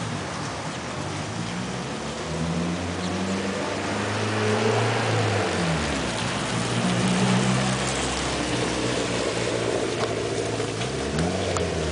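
A car engine running with a steady hiss, its pitch dipping and climbing back twice.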